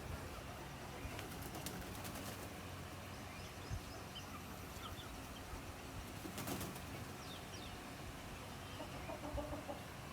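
Chickens and a chick making scattered short high peeps, with occasional wing flaps and rustling and a brief run of clucking near the end.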